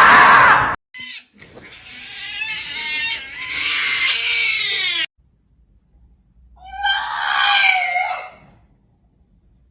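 A run of short clips of animals screaming and calling. A loud scream is cut off abruptly just under a second in. Then come two long, drawn-out calls with a pause of about a second and a half between them.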